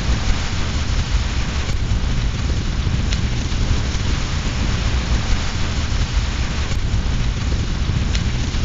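Steady rain with a low rumble underneath, and four sharp crackles from a wood fire in a fireplace scattered through it.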